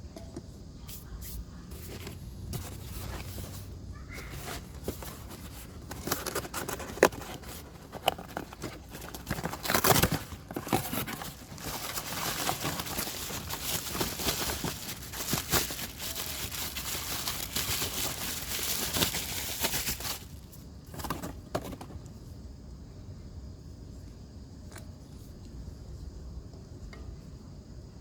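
Hand work on a car's accessory drive belt: scraping, rustling and sharp clicks and knocks of tools and parts being handled, busiest in the middle and easing off near the end.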